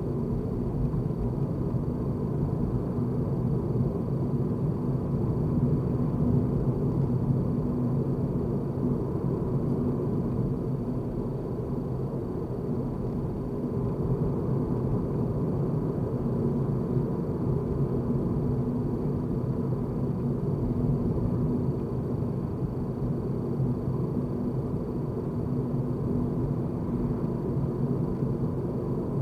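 A car being driven: a steady rumble of engine and road noise with a faint steady hum over it, rising and falling slightly in loudness.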